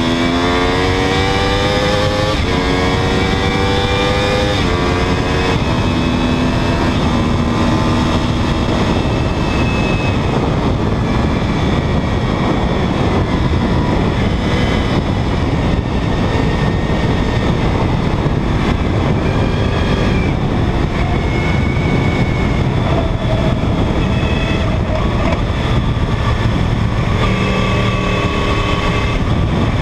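2009 Yamaha R1's crossplane inline-four engine at high revs. In the first few seconds it pulls hard through the gears, its pitch climbing and then dropping back at each upshift. It then runs at speed under a dense rushing noise of wind over the tank-mounted microphone, and its tones come through clearly again near the end.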